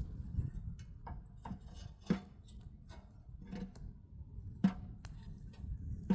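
A series of irregular knocks, about six over six seconds, each a short thud with a brief ring, over a low rumble.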